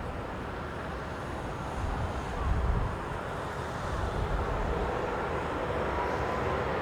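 Jet airliner's engines getting gradually louder as it comes in to land, with faint steady whining tones. Strong wind gusts buffet the microphone with an uneven low rumble.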